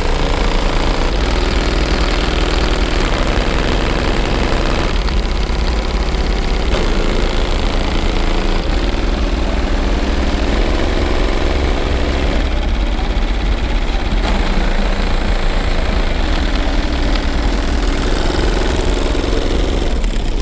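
A very loud car audio system playing bass-heavy music, its subwoofer bass overpowering and distorting the recording, with the song's notes changing every few seconds.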